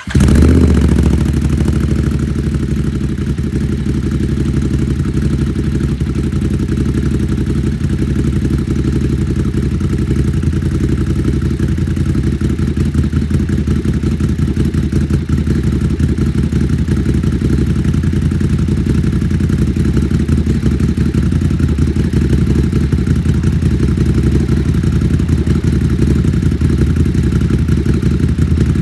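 Ducati 939 SuperSport S's 937 cc L-twin, breathing through a de-cat Competition Werkes exhaust, idling just after a cold start. It flares briefly right at the start, then settles within about a second into a steady idle with a deep, loud growl.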